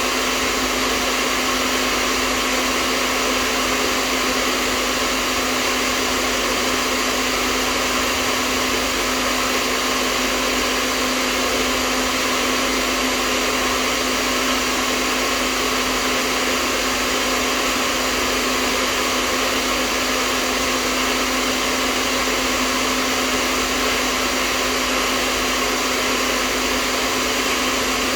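Hair dryer running steadily: a constant blowing rush with a low motor hum beneath it.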